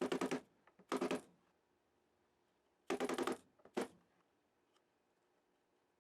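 Metallic clinking in four short bursts, two close together at the start and two more about three seconds in.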